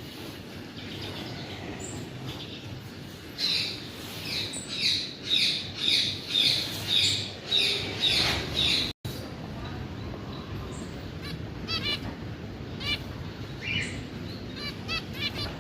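Caged birds calling: a run of loud calls repeated about twice a second starting a few seconds in, then fainter chirps and quick trills.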